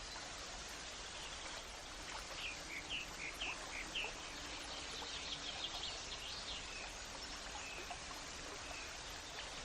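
A steady hiss of running water or rain, with a small bird singing a series of short, high chirps a couple of seconds in that quicken into a brief trill before stopping.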